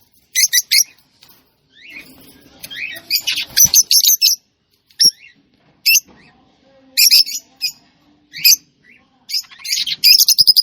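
Small bird chirping in short, scattered bursts of high calls, ending in a quick run of rapid chirps.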